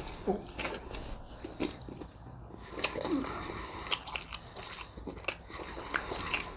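A person chewing and biting food close to the microphone, with irregular mouth clicks and smacks.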